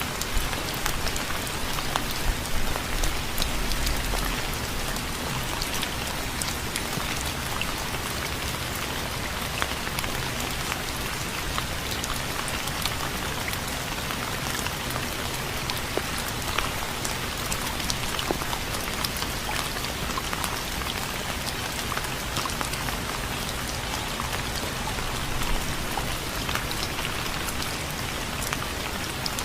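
Steady rain falling, with many small drops striking a surface; a few louder low spatters in the first few seconds.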